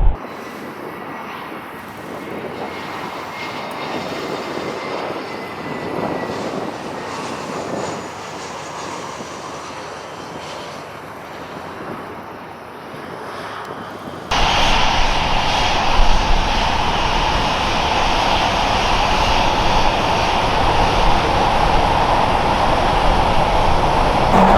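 Jet airliner engine noise: a steady rumble with a faint high whine. About two-thirds of the way through, an abrupt cut brings in much louder jet engine noise.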